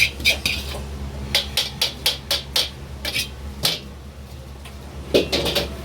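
Kitchen utensils striking, in quick runs of sharp knocks about three a second with short pauses, over a steady low hum.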